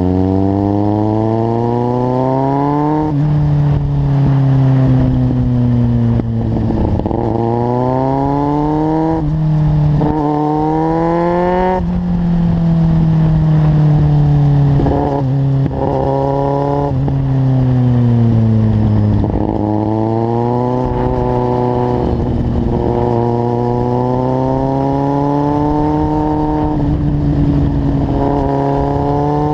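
Kawasaki Z750's inline-four engine through a carbon LeoVince aftermarket exhaust, accelerating on the road: the pitch climbs over a few seconds and then drops at each upshift, about six times, then holds a steadier cruising note for several seconds before climbing again near the end.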